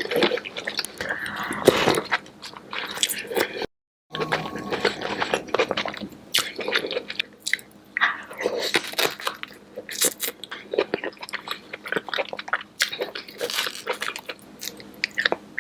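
Close-miked eating of a saucy seafood boil: wet chewing and crunching with quick, irregular bites and mouth clicks. A short dead-silent gap comes about four seconds in.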